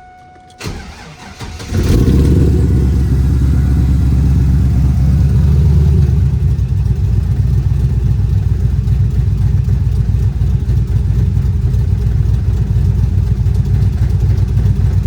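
2000 Camaro's V8 cranking briefly and catching about two seconds in, then running at a steady fast idle that settles slightly a few seconds later. The engine suffers from blow-by, which the owner puts down to worn piston rings, and has just been filled with thicker oil.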